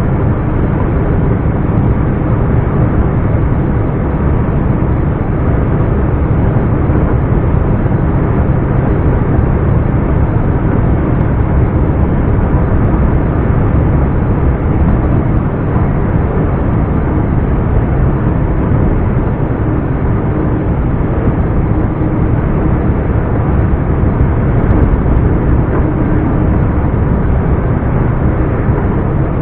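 Scania R420 truck's 12-litre inline-six turbo diesel running steadily while driving, with an even drone and no clear changes in engine speed.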